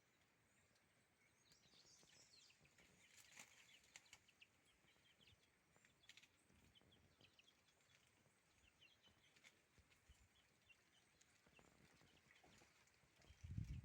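Faint, scattered bird chirps, short high notes repeating irregularly over a quiet background hiss, with a low thump near the end.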